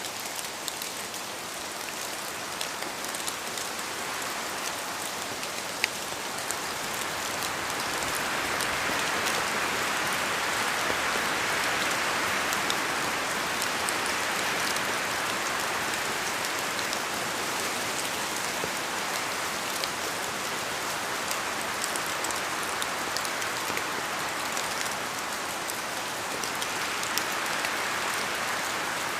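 Steady rain falling in a forest, with scattered louder drops ticking down from the trees; the rain swells in gusts, most strongly from about eight to sixteen seconds in.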